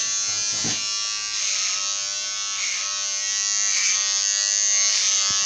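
Electric clippers running with a steady buzz.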